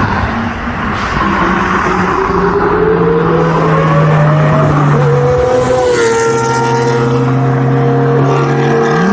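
Lamborghini Murcielago V12 with an IPE exhaust running loudly; its note climbs in pitch over the first few seconds, then holds steady with a couple of small pitch shifts.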